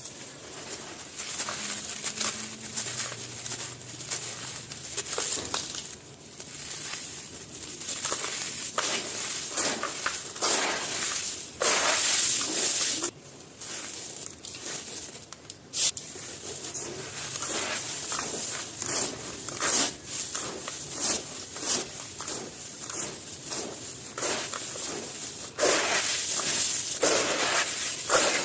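Hands crushing and crumbling brittle pieces: a continuous gritty crunching made of many small cracks and crackles. There are louder crushes about 12 seconds in and again from about 25 seconds.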